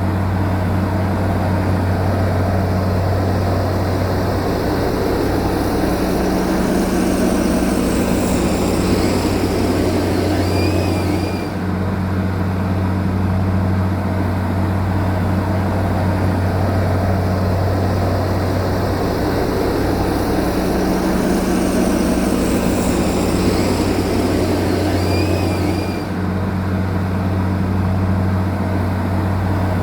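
Heavy diesel engine of earth-moving machinery running steadily, its drone swelling and easing with the load, with two brief dips partway through.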